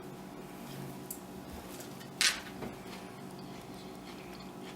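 A mouthful of dried, spice-dusted larvae being chewed: faint clicks, and one short, sharp crunch about two seconds in.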